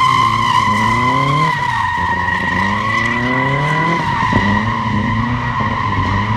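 Turbocharged rear-wheel-drive Subaru drifting: the tyres squeal steadily while the engine revs climb and fall back several times.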